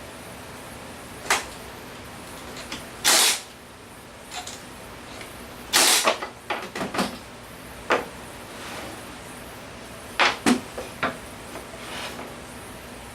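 Scattered knocks and clicks with two short scraping or hissing bursts, about three and six seconds in, over a steady background hiss: objects being handled and set down in a workshop.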